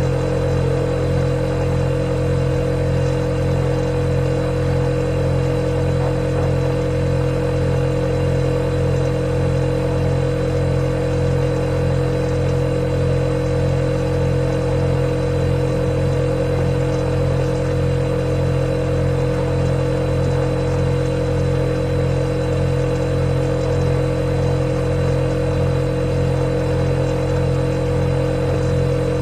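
Refrigerator running with a steady, unchanging hum made of several held low tones, with a faint high whine above them.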